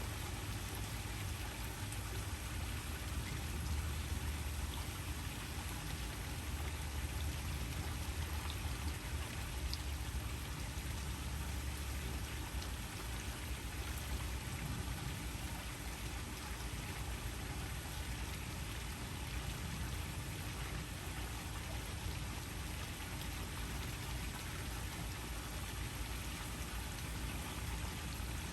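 Waterfall: a steady rush of falling water with a deep low rumble under it.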